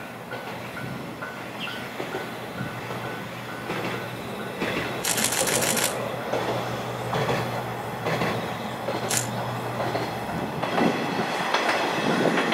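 A single-car diesel railcar running past, its engine a steady low hum, with the wheels clicking and rattling over the rail joints, loudest about five seconds in and again near the end.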